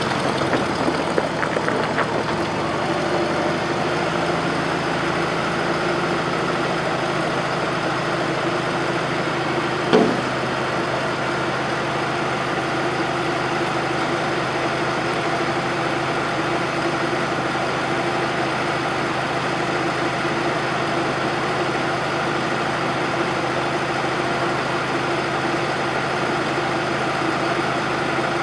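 The Bobcat 610 skid-steer loader's Wisconsin gasoline engine running steadily at idle, with one sharp knock about ten seconds in.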